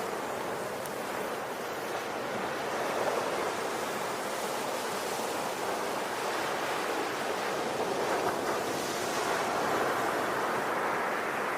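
Ocean waves washing onto a shore in a steady, continuous rush of surf that swells and eases gently.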